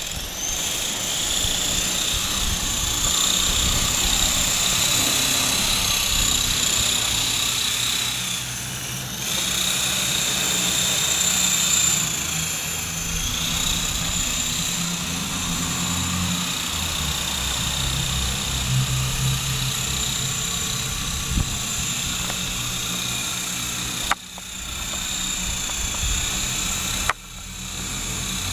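Esky Big Lama coaxial electric RC helicopter flying: a steady high-pitched motor whine over the low buzz of the rotors. The whine drops away briefly about nine seconds in and twice near the end.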